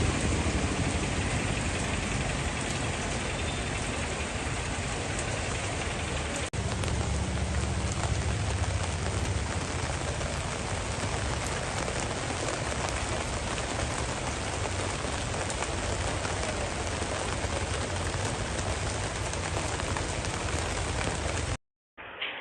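Heavy rain pouring down, a dense steady hiss with a low rumble underneath. It breaks off for an instant about six and a half seconds in and cuts off abruptly just before the end.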